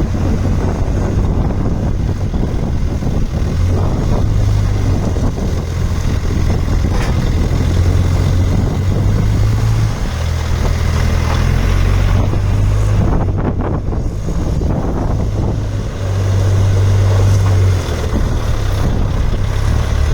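Diesel engine of a Case 770EX loader backhoe running. Its low note steps up and down in level several times, louder from about 4 s in and again from about 16 to 18 s in.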